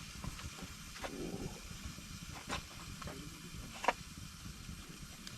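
Wood fire crackling under a low steady rumble, with a few sharp pops spaced over a few seconds.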